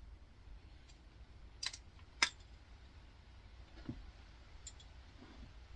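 A few separate sharp clicks and taps of small parts being handled while an air fryer's small synchronous motor is taken apart by hand, the loudest a little over two seconds in.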